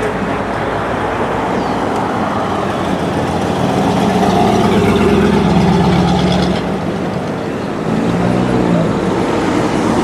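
A car's engine running as it drives slowly past, loudest in the middle, with a second engine coming in about eight seconds in, over crowd chatter.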